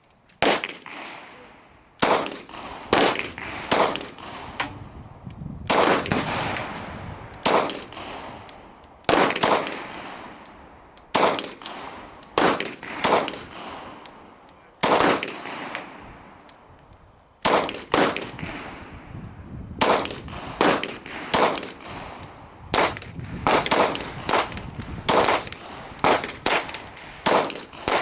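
Glock 22 Gen4 pistol firing .40 S&W rounds shot after shot at an uneven pace, each report with a ringing tail, and a couple of short pauses between strings.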